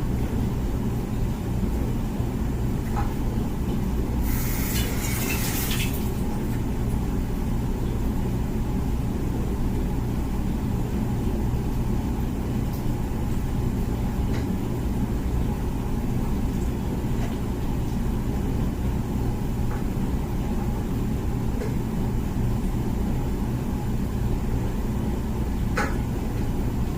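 Comfee dishwasher running its wash cycle with a steady low rumble from its pump. A short hiss lasting under two seconds comes about four seconds in.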